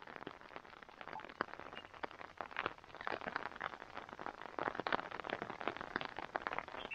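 Light rain pattering, with many irregular drop taps close to the microphone that grow denser after about three seconds.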